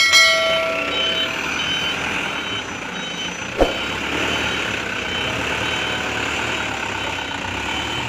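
Mitsubishi Canter HD125 dump truck running with its reversing alarm beeping steadily at a high pitch, a brief tone at the start and a single knock about three and a half seconds in.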